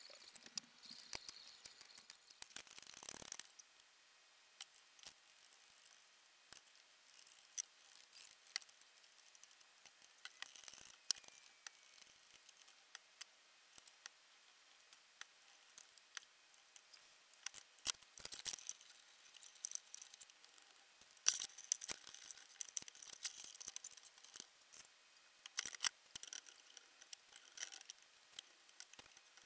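Faint, scattered clicks and taps of hardwood strips, a glue bottle and bar clamps being handled and tightened while an edge-grain cutting board is glued up. A short scraping hiss swells and cuts off about three seconds in, and the clicking grows busier past the middle.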